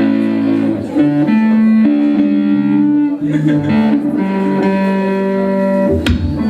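Live rock band music: a guitar plays a slow melodic line of held notes, and the drum kit comes in near the end.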